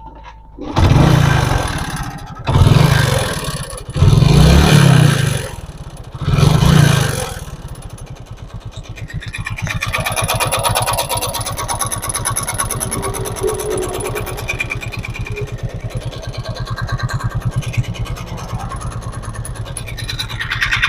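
Hero Glamour's single-cylinder motorcycle engine, kick-started, comes in with four loud bursts over the first seven seconds, then settles into a steady idle with a fast, even pulsing. The engine makes a harsh sound like something grinding heavily, which the mechanic takes for a noisy timing chain.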